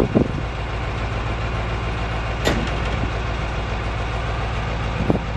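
Dump truck's diesel engine running steadily at a low idle-like speed, with one short sharp click about halfway through.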